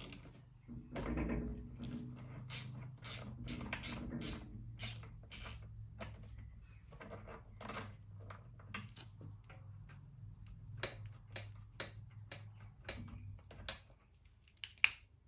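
Scattered light clicks, knocks and rattles of tools and small metal parts being handled while a lawn mower's carburetor is taken apart, over a faint low steady hum. A sharper click comes near the end.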